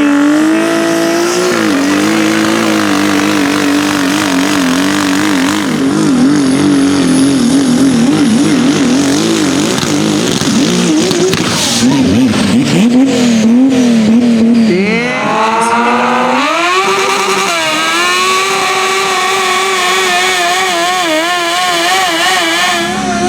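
Tractor-pulling engine at full throttle hauling the weight sled, its revs wavering rapidly under load. About two-thirds of the way through, the revs sag, then climb sharply and hold high again.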